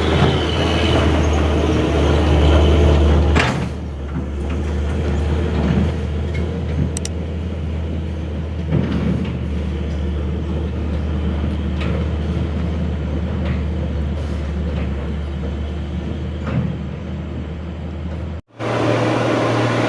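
Diesel truck engine running with a steady low drone and rumble, dropping somewhat in level a few seconds in. The sound cuts off abruptly near the end.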